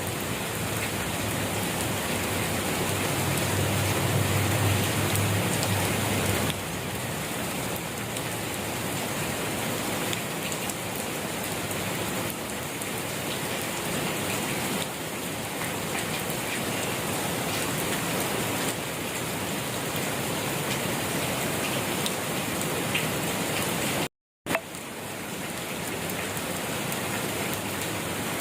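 Steady rain falling on surfaces, an even hiss of drops, with a low rumble beneath it for the first six seconds or so. About three-quarters of the way through, the sound cuts out for a split second and comes back with a click.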